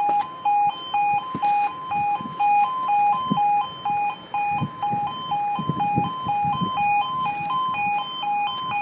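UK level crossing warning alarm sounding its two-tone yodel, switching steadily between a lower and a higher tone about twice a second: the crossing is closed for an approaching train.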